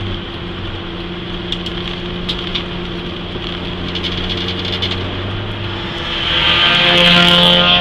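Peugeot 206 S16's 2.0-litre 16-valve four-cylinder engine heard from inside the cabin: it eases off at the start and runs steadily at a lower level over tyre and road noise, then pulls harder and gets louder about six seconds in.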